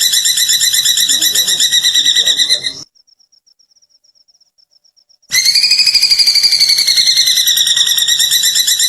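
A bird's fast, pulsing, cackling trill, the giggle-like call likened to a kuntilanak's laugh. It breaks off about three seconds in, leaving only a faint high pulsing note for a couple of seconds, then resumes at full strength.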